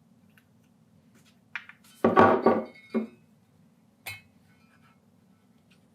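Small metal engine parts clinking and ringing as a piston ring is worked off a piston and handled on the bench: a few sharp clinks, the loudest cluster about two seconds in, over a faint low hum.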